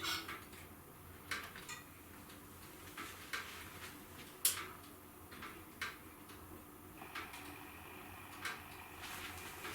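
Wood fire crackling in a fireplace: irregular sharp pops and snaps about once a second over a faint steady hiss, the loudest pop about four and a half seconds in.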